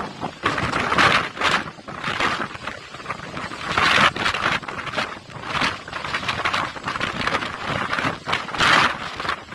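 Storm-force wind of a whirlwind gusting hard, a rough rushing noise that surges and drops in irregular blasts every second or so.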